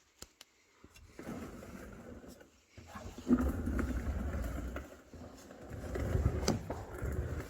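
Exhaust of a BMW M60B40 4.0-litre V8 swapped into an E46, the engine run up and eased off a few times, growing louder around three seconds in and again near six seconds.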